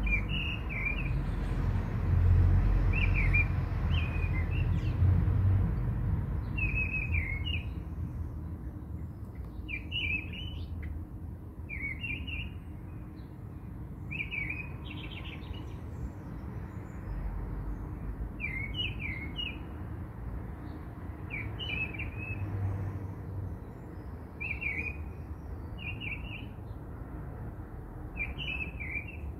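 A small bird chirping, repeating a short high phrase every two to three seconds, over a low rumble that is strongest in the first few seconds.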